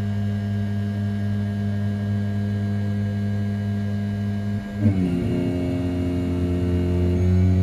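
Desktop CNC mill with a 500 W brushless spindle at 6000 rpm roughing a pocket in 7075 aluminium: a steady machining hum. Its tone pattern shifts about five seconds in, with a brief bump in level, as the cut changes.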